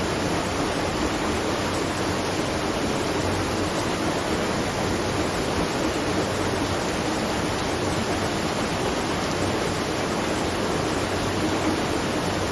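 Steady, even rush of water pouring and splashing at a watermill.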